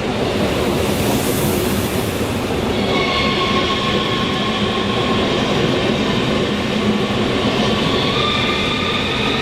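A train moving through the station at close range, running with a steady rumble. A hiss comes in briefly during the first few seconds, then high whining tones set in from about three seconds and step up in pitch near the end.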